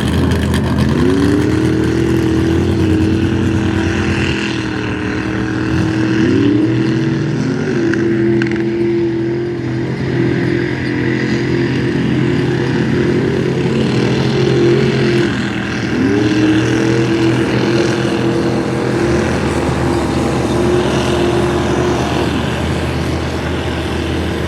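Square-body Chevy mud truck's engine revving hard, climbing quickly in pitch and holding at high revs, then dropping and climbing again about four times.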